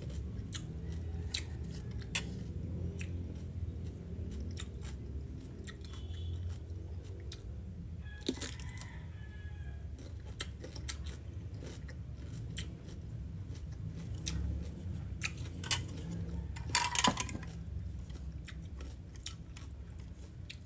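Cucumber being bitten and chewed close to the microphone: scattered crisp crunches, with a denser run of crunching about two-thirds of the way in. A steady low hum sits underneath.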